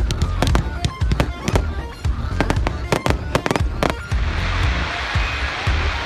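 Fireworks going off: a rapid string of cracks and bangs for about four seconds, then a dense hissing crackle, over background music.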